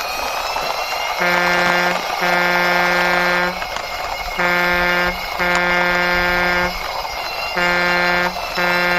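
Truck horn honking in three pairs, each a short toot followed by a longer blast, over a steady engine-like hum.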